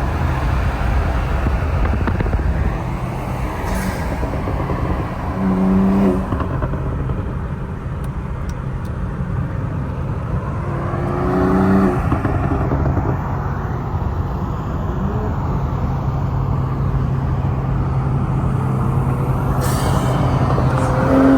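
BMW M340i's turbocharged 3.0-litre B58 inline-six running with an aftermarket intake and the muffler deleted: a continuous exhaust note that swells briefly about six and twelve seconds in.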